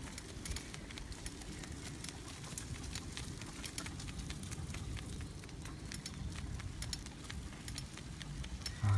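Bicycle rolling along a forest track: a steady low rumble with many scattered crackles and ticks from the tyres on the ground.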